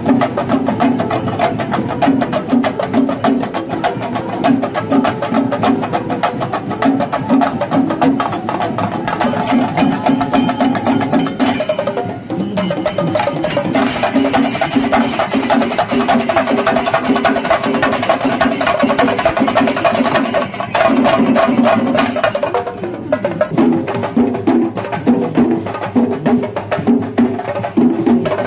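Kerala temple-festival percussion ensemble (melam): chenda drums beaten rapidly with sticks in a dense, fast rhythm, together with a repeating pitched line. The sound briefly shifts about twelve seconds in and again about twenty-one seconds in.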